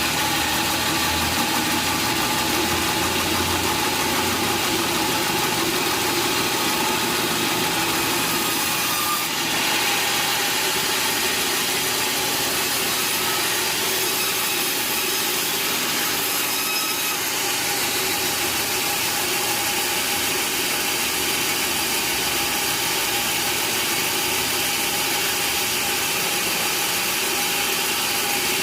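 Sawmill machinery running steadily without cutting, a continuous engine-like noise with a faint steady whine.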